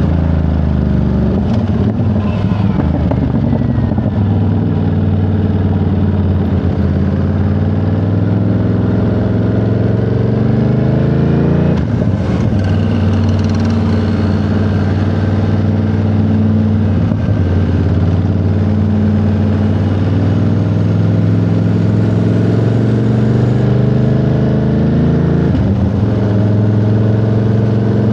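Ducati Monster 937's 937 cc L-twin engine running under way, its pitch climbing several times as it accelerates, with short dips between pulls.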